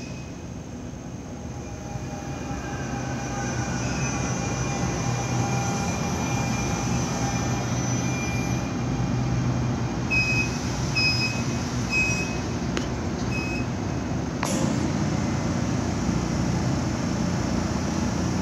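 NJ Transit electric multiple-unit train pulling into the station: a steady low electric hum with faint whining tones, growing louder as the cars roll past. About ten seconds in comes a run of short high beeps, and a few seconds later a single sharp knock.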